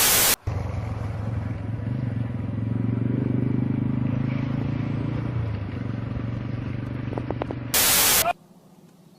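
A short loud burst of hiss like TV static, then a steady low rumble for about seven seconds, then a second brief static-like burst that cuts off suddenly.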